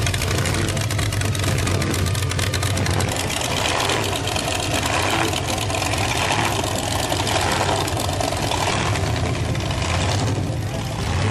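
Car engine idling steadily with a rapid, even pulse of exhaust beats.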